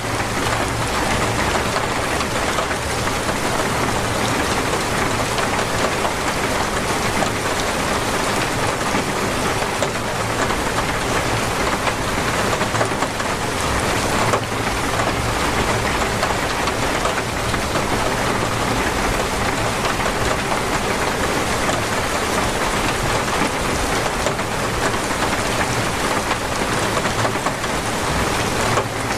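Torrential rain falling steadily: a dense, even hiss of heavy downpour that does not let up.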